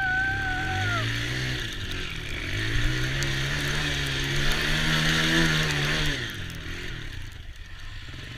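Small ATV engine revving up, easing off briefly, then revving again and holding before falling away about six seconds in.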